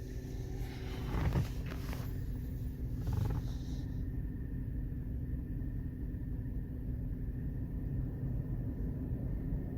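Automatic car wash machinery running, heard from inside the car: a steady low rumble with a constant hum. A hissing rush over the first few seconds cuts off suddenly about four seconds in.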